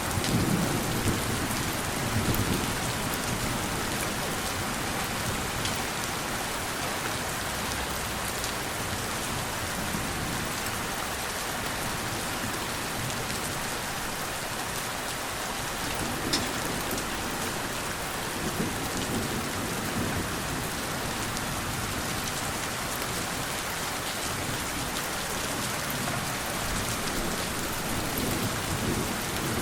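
Steady rain falling on a surface, with a few louder drop ticks. Low rumbles of distant thunder swell up at the start, about two-thirds of the way through, and again near the end.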